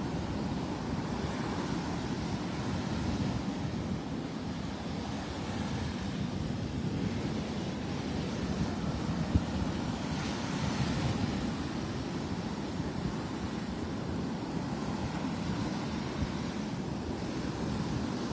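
Rough surf washing steadily onto the beach, with wind rumbling on the microphone.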